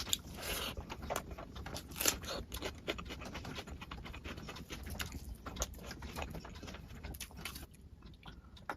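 Close-miked eating: wet chewing and lip-smacking, heard as many irregular sharp clicks and smacks over a steady low hum.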